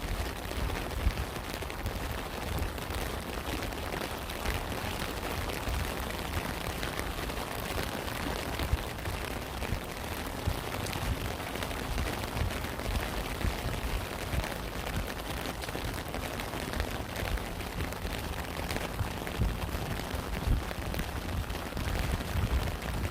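Steady rain falling, an even hiss with scattered sharper drop taps and a low rumble underneath.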